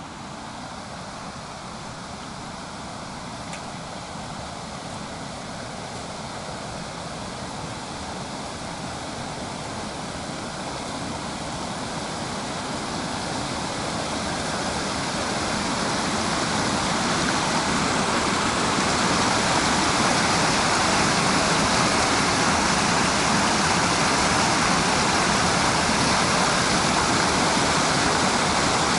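A steady rushing noise that grows louder over the first eighteen seconds or so, then holds level.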